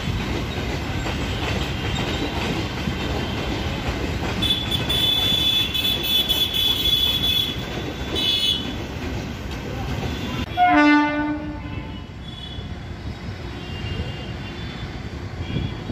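Passenger train coaches rolling past with wheels clattering on the rails, and a high steady squeal joining for a few seconds in the middle. About ten seconds in, a MEMU electric train sounds its horn once for about a second, then its running is heard as it approaches.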